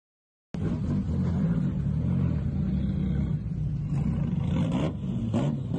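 A car engine running with a loud, rough rumble that starts abruptly about half a second in and holds steady, with a couple of brief surges near the end.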